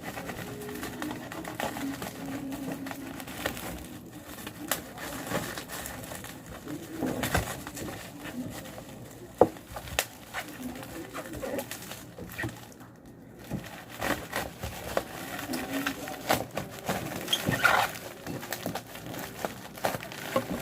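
A bird cooing, low and repeated, with clicks and rustling from a wrapped parcel being handled and opened.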